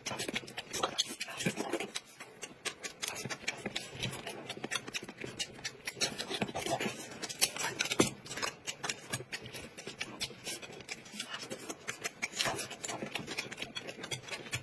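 Close-miked eating sounds of two people chewing steamed buns and dumplings: many quick, irregular wet smacks and clicks of the mouth, with a sharp tap about eight seconds in.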